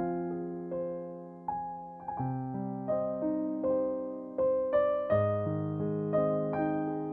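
Slow, gentle piano music: soft chords and single notes struck every half second to a second, each ringing and fading.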